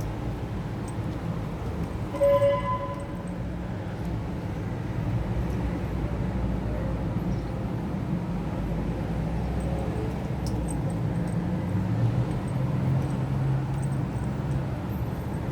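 Low, steady rumble of passing vehicle traffic, with a single short horn toot about two seconds in.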